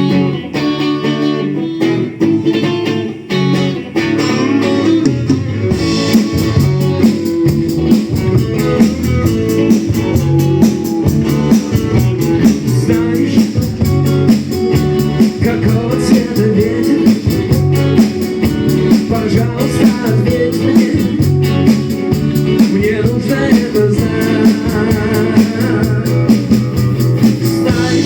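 Live rock band playing the opening of a song: guitar leads off, and about four to six seconds in the full band comes in with a steady beat of sharp high strokes over the guitar.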